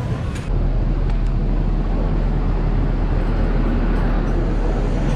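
Peak Tram funicular car running, a steady low rumble under a hiss of noise that comes up abruptly about half a second in.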